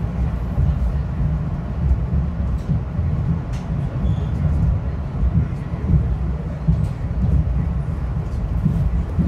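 Inside a moving Metro-North commuter train car: a steady low rumble of wheels on the rails, with faint scattered clicks and rattles.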